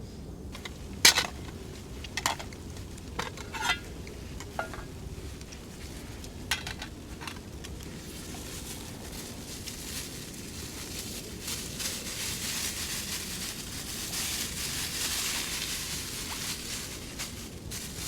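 Metal cookware and utensils clinking and knocking about seven times, the loudest strike about a second in. A steady high hiss then builds from about eight seconds in, peaks, and fades near the end.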